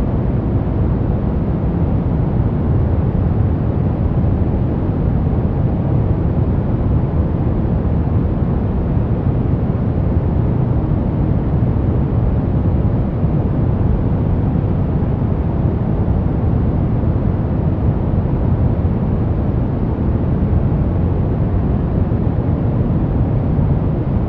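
Steady generated noise of the kind played as white noise for sleep, weighted toward the low end: an even, deep hiss that never changes.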